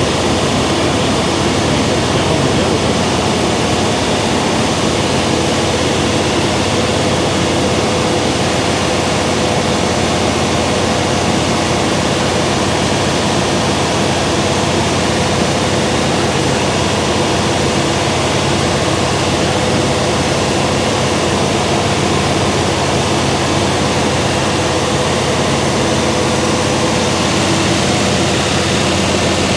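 Steady, unbroken mechanical running noise with a constant hum, holding the same level throughout.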